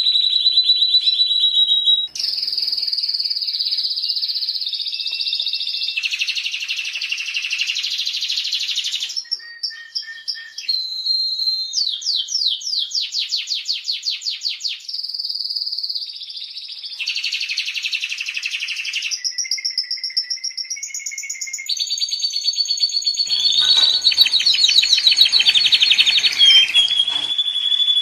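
Domestic canary singing a long, varied song: fast trills, rolling runs of repeated notes and held whistled notes, each phrase giving way to a new one every second or two.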